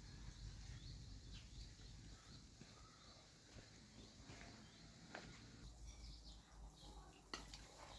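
Near silence: faint background ambience with a few soft isolated clicks.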